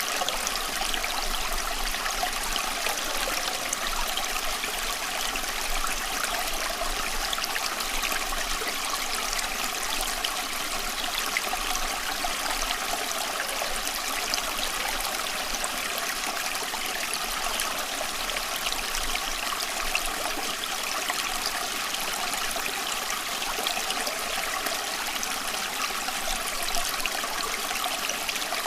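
Steady running water, a stream flowing and trickling without pause.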